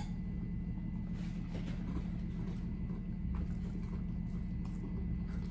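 Close-miked eating sounds: a forkful of a Chipotle steak, rice and vegetable bowl being chewed, with faint scattered mouth clicks and fork scrapes in the bowl, over a steady low hum.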